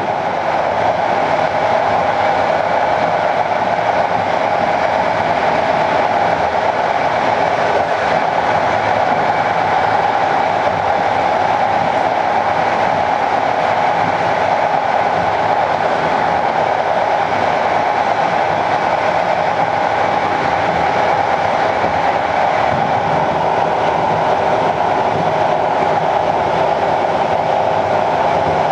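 Passenger train running steadily along the line, heard from inside: an even, unbroken rolling noise of wheels on rails.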